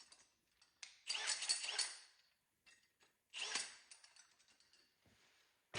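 Two short bursts of faint metallic scraping and squealing, about a second in and again near the middle, as a 4 1/8-inch hole is cut through sheet-metal body panel.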